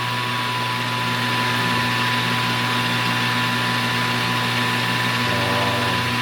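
Metal lathe running at about 1,000 RPM with aluminium stock spinning in the chuck and no cut being taken: a steady motor hum with a thin high whine over a hiss.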